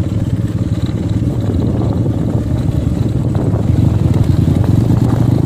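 Motorcycle engine running steadily under way, a low rumble with a fast firing beat. It grows a little louder about four seconds in.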